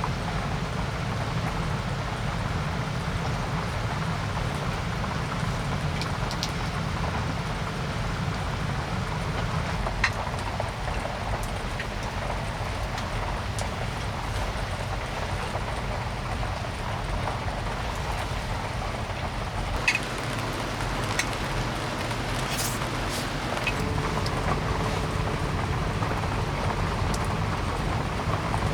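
Steady heavy rain with a constant low rumble underneath and a few sharp ticks of drops or knocks.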